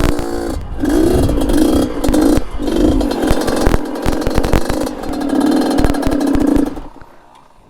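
Yamaha RX-King two-stroke single-cylinder engine in a DT trail bike, revving in repeated bursts under throttle, with clattering knocks. The engine sound drops away near the end.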